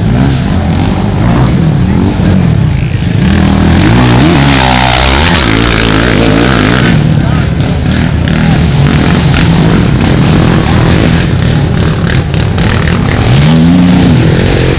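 Racing ATV engines running loud and revving as the quads pass. The pitch climbs and falls about four seconds in, and again near the end.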